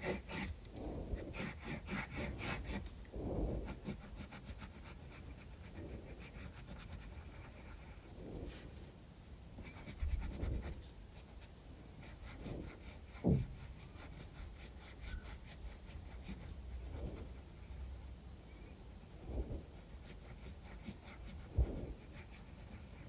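Graphite pencil scratching on sketchbook paper, with quick back-and-forth shading strokes for the first few seconds and lighter, sparser strokes after that. A few soft knocks come in between, the clearest just past the middle.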